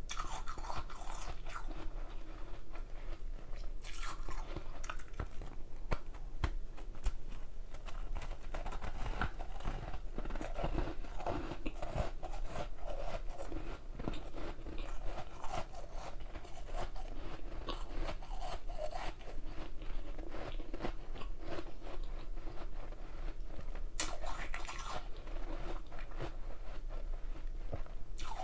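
Ice being bitten and chewed close to the microphone: a continuous run of crunching and cracking, with sharper bursts of crunching about four seconds in and again near the end.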